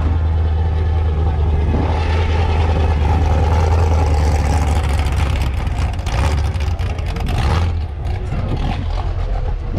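A car engine running close by with a steady low rumble, which turns uneven about six seconds in.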